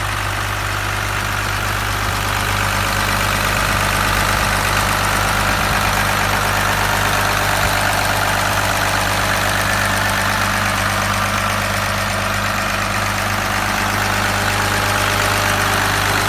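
1st-gen Cummins 5.9 L 12-valve inline-six diesel, with a P-pump and compound turbos, idling steadily.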